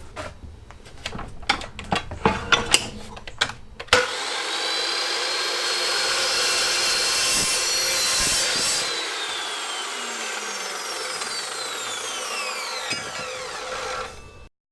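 A few seconds of clicks and knocks from the steel shelving being set in place. Then a Makita chop saw starts up and cuts through the steel. After about five seconds of cutting, the motor is released and its whine falls steadily as the blade spins down, until the sound cuts off suddenly near the end.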